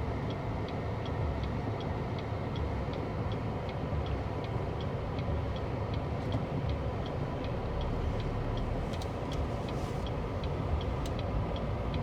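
Car turn signal ticking steadily, about three clicks a second, over the low hum of the car idling, heard from inside the cabin.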